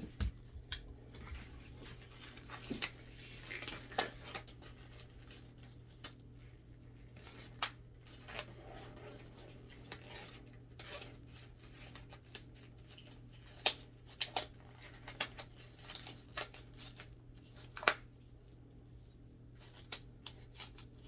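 Scattered light clicks and taps of small objects being handled and set down on a work table, over a steady low hum.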